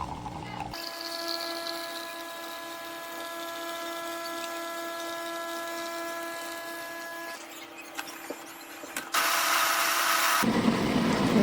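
Built-in burr grinder of a Bosch fully automatic espresso machine running, grinding coffee beans: a steady motor hum for about six seconds. After a short quieter gap with a few clicks, a louder, harsher burst comes near the end.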